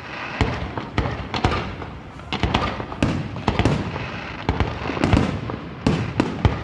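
Aerial fireworks going off in quick, irregular succession: many sharp bangs and crackles, several a second.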